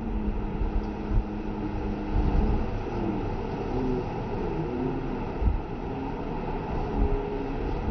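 Steady low rumble under a rushing wash of noise: a cruise boat's engine running, mixed with the rush of falling water.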